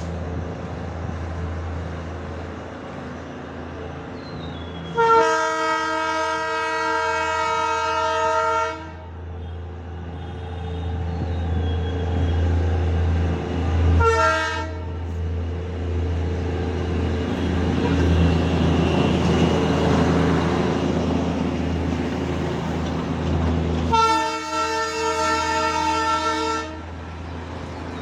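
Darjeeling Himalayan Railway diesel locomotive running with a steady low drone, sounding its horn in two long blasts of about three to four seconds each, about five seconds in and near the end, with a brief toot in between.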